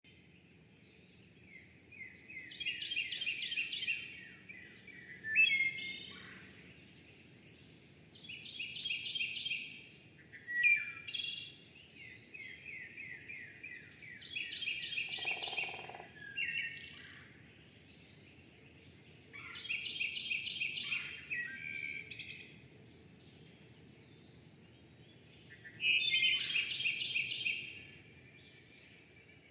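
A songbird singing, repeating a short phrase of rapid trilled notes followed by a sharp call about every five or six seconds, over a steady faint high-pitched tone.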